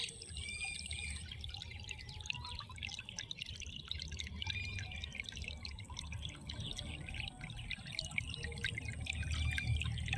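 Rainwater dripping, many scattered drops ticking irregularly, over a steady low rumble.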